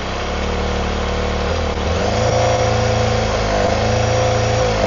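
Honda CBR250RR MC22's inline-four engine idling with a misfire, its revs picking up a little about two seconds in as starting fluid is fed into cylinder 1. The rise in revs points to a lack of fuel in cylinder 1: a lean cylinder from a blocked pilot jet or a pilot screw set too far in.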